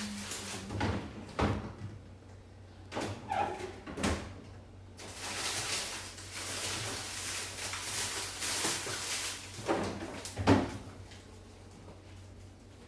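Kitchen handling sounds: a string of knocks and clatters, with a stretch of steady hiss in the middle and two sharper knocks near the end.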